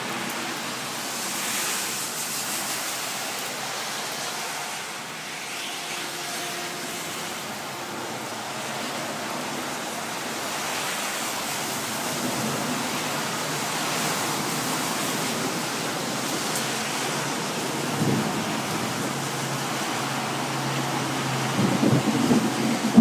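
Steady rain falling in a thunderstorm, an even hiss. Near the end, gusts of wind buffet the microphone in irregular low rumbles.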